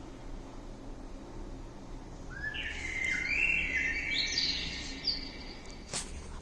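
Small birds chirping: a run of short, high-pitched chirps about two and a half seconds in, with a single click near the end.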